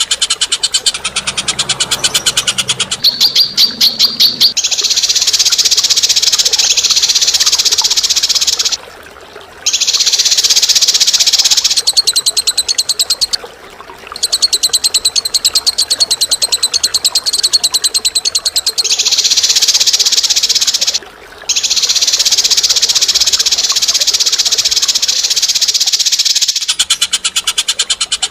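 Bird giving a long, harsh chatter of rapid, sharp repeated notes in runs several seconds long, broken by three short pauses.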